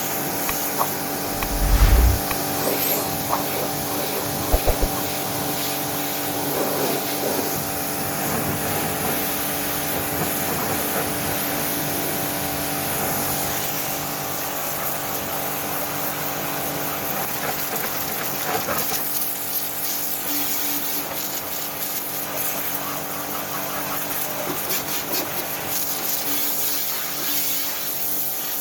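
Portable electric pressure washer running steadily: a constant motor hum under a hiss of spraying water, with a low thump about two seconds in.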